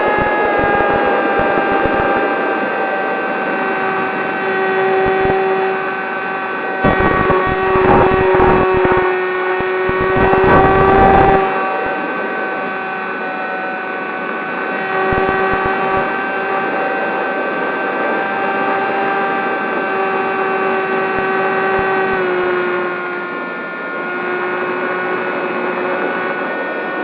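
Electric motor and propeller of a Zohd Talon GT Rebel RC plane whining steadily in flight, dropping in pitch as the throttle is eased right at the start and again about 22 seconds in. Wind buffets the microphone with low rumbling gusts about 7 to 11 seconds in.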